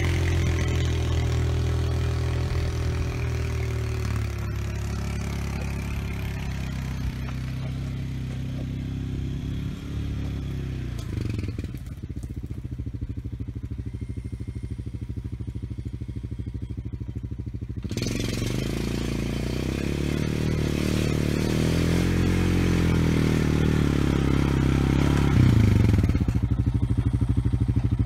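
A small off-road vehicle's engine running while it pulls a land planer through dirt and gravel, with the scrape and clatter of the blade dragging soil. Midway the scraping stops and the engine runs lower for several seconds, then both pick up again.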